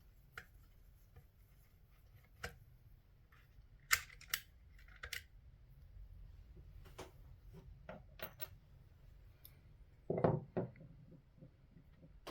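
Irregular clicks and taps of small tools and parts being handled while a Xiegu X6200 transceiver is taken apart, with a short burst of clatter near the end.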